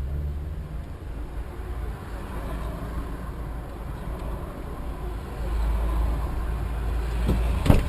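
Motor vehicle rumble, growing louder a little past halfway, with a few sharp knocks near the end.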